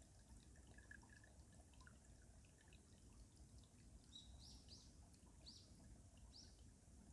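Faint trickle and drip of a stream flowing under ice. From about four seconds in, a small bird gives a run of short, high chirps, about one every half second to a second.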